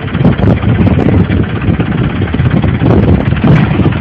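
Tractor engine running loudly with a rapid, even low pulsing.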